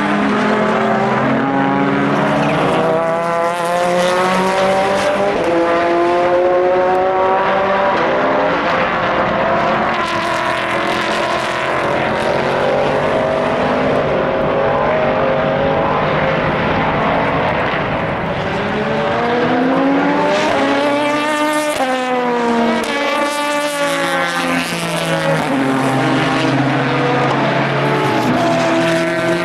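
Several endurance race cars lapping at speed, their engines running at high revs with overlapping notes that climb and drop through the gears. About two-thirds of the way through, one car passes close by and its engine note swoops sharply downward.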